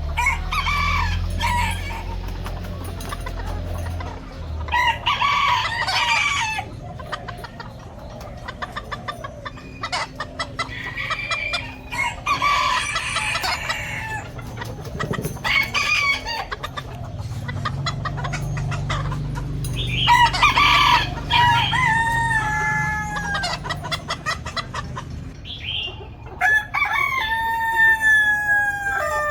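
Chickens clucking, with roosters crowing several times; the longest crows come in the second half, one just before the end.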